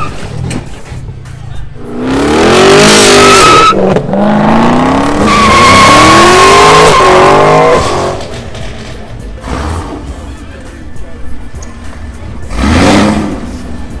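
Car engine revving hard in two long pulls with tyres squealing, as in a burnout, then a shorter rev near the end.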